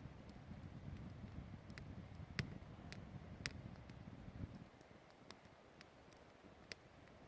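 Campfire crackling faintly: sparse, sharp pops and snaps of burning wood, the loudest about two and a half seconds in, over a low rumble that drops away a little past halfway.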